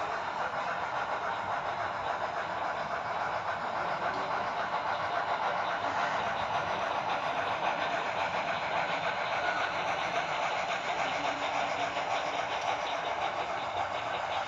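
HO scale model steam locomotives with Tsunami 2 sound decoders running as a double-header: a steady, rapid chuffing from their small onboard speakers, mixed with the noise of the train rolling on the track.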